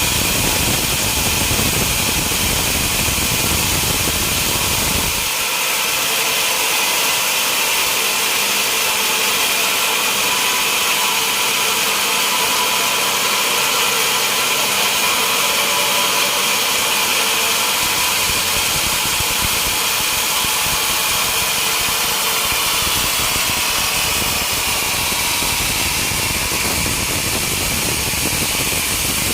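Sawmill machinery running steadily: a continuous motor-and-saw noise with a strong hiss and a few steady tones. The low rumble drops away about five seconds in and comes back over the last ten seconds or so.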